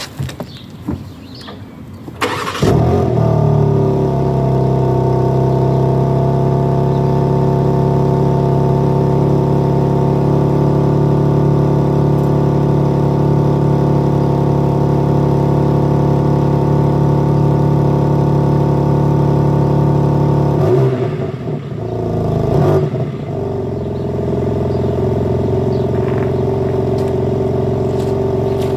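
BMW M4 Competition's twin-turbo inline-six cold-starting about two seconds in, flaring up and then holding a loud, steady high cold idle. About two-thirds of the way through the note dips, rises briefly, and settles to a steady idle with a different tone.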